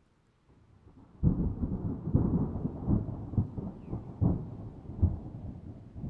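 Thunder: a low rumble breaks in suddenly about a second in, then rolls on with a series of louder cracks and peaks.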